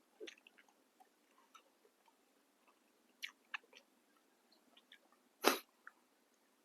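Close-up chewing of crisp fresh vegetables, heard as scattered small crunches, with one louder knock about five and a half seconds in.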